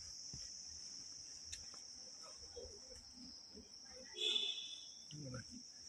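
Steady high-pitched drone of insects, crickets or cicadas, trilling without a break. About four seconds in, a brief call rises above it as the loudest sound.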